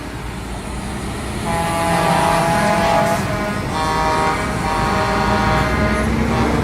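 Truck air horns sounding in long held blasts, several notes together, over the low rumble of truck engines. One blast starts about a second and a half in and another about four seconds in.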